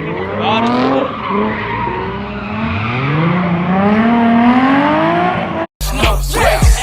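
A car sliding at a car meet: tires squealing in long, wavering and rising pitches while the engine is revved. About five and a half seconds in, the sound cuts off abruptly and a hip-hop track with a heavy beat starts.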